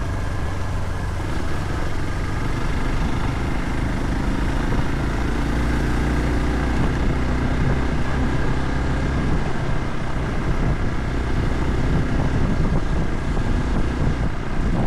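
A vehicle driving over a rough forest track: a steady engine hum with road and tyre noise, the engine note shifting a little partway through.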